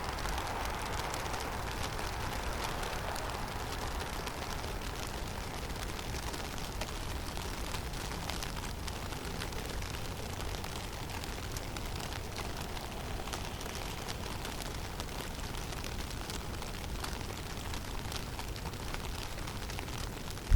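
Blizzard ambience in a snowy conifer forest: a steady low rumble of wind under an even hiss, with faint scattered ticks.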